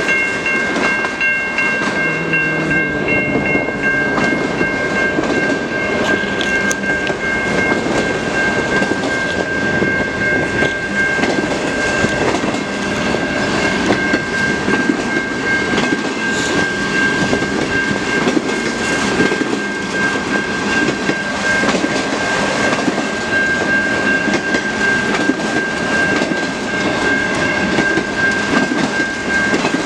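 Freight train cars rolling past steadily, with a continuous rumble and wheel clatter over the rail joints. A steady high tone rings over the whole passage.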